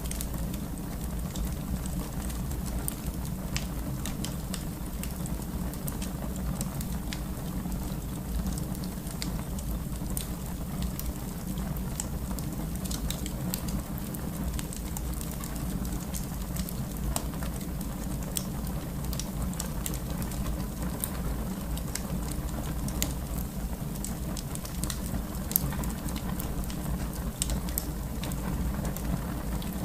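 Wood fire burning in a fireplace: a steady low rumble of flame with frequent small crackles and pops, and one louder pop about 25 seconds in.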